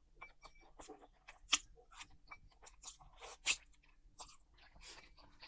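Close-miked chewing of food: a string of short wet clicks and crunches from the mouth, two louder ones about a second and a half and three and a half seconds in.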